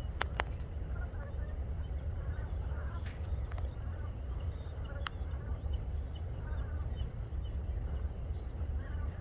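Faint bird calls scattered over a steady low rumble, with a few sharp clicks near the start and again around three and five seconds in.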